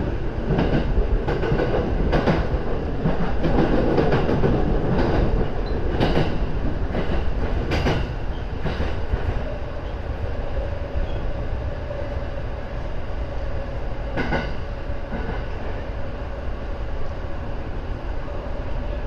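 Rinkai Line electric train running, heard from inside the train, wheels clacking irregularly over points and rail joints. From about halfway through a steady whine sits under the running noise as the train enters the station.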